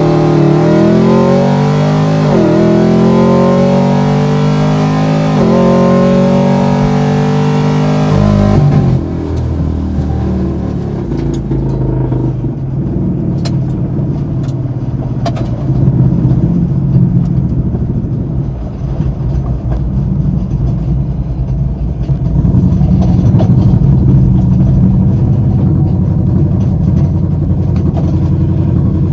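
Car engine accelerating hard, rising in pitch through the gears with two upshifts where the pitch drops. About a third of the way in it cuts abruptly to a lower, steadier engine rumble with scattered clicks, which gets louder again near the end.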